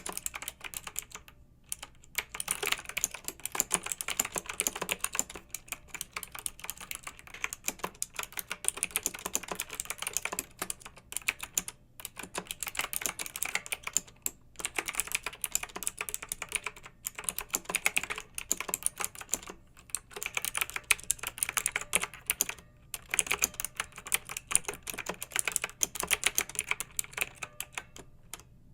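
Clicky mechanical keyboard being typed on in fast, steady runs of keystrokes, broken by brief pauses every few seconds.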